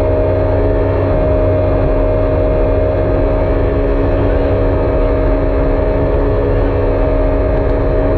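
Jet ski engine running at a steady speed, holding one pitch with no revving.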